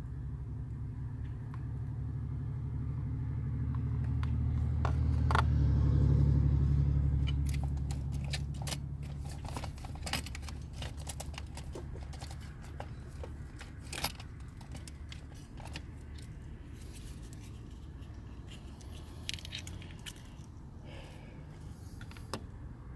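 A low, engine-like rumble that swells to its loudest about six seconds in and then fades away, followed by scattered light clicks and clinks of small hard objects being handled.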